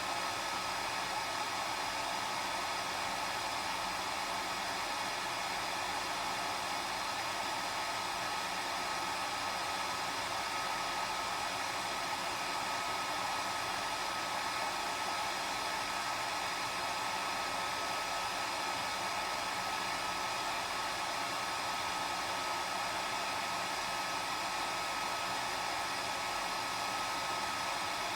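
Hair dryer running steadily: a constant rush of blown air with a steady high whine from its motor and fan.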